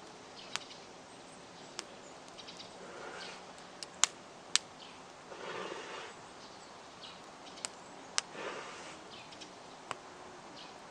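Wood campfire crackling: irregular sharp pops and snaps, about eight in all, the loudest a pair about four seconds in, over a low hiss with a few soft surges of noise.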